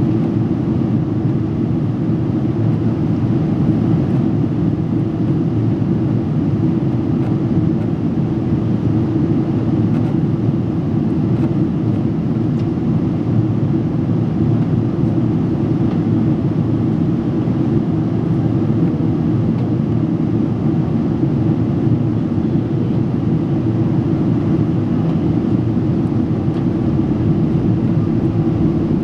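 Steady cabin noise inside a Boeing 777-300 airliner in flight: a constant low rush of engines and airflow that stays even throughout.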